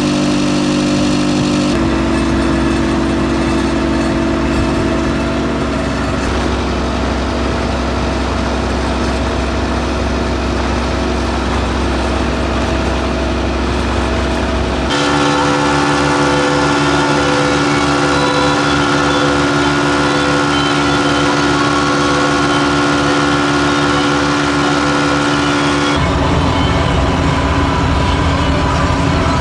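Massey Ferguson 399 tractor's six-cylinder diesel engine running steadily while carting a load of slurry. Its tone changes abruptly three times: about 2 seconds in, about 15 seconds in and near the end.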